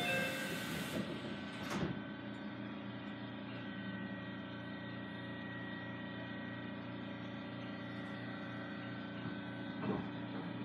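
Inside an Aichi Loop Railway 2000-series electric train car: the last notes of a chime at the start, a thump about two seconds in, then the train's steady electrical hum with a faint pulsing drone underneath.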